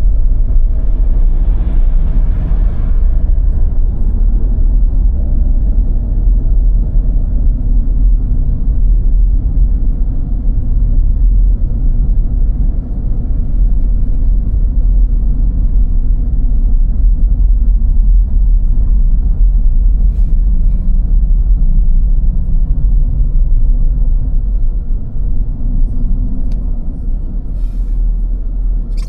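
Steady low rumble of a car being driven on snow-covered roads: engine and tyre noise.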